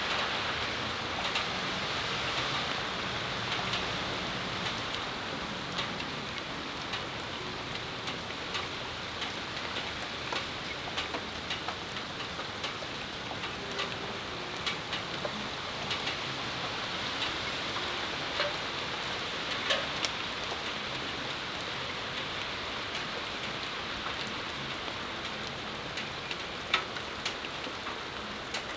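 Steady rain shower falling: an even hiss with individual drops ticking close by, a few of them louder.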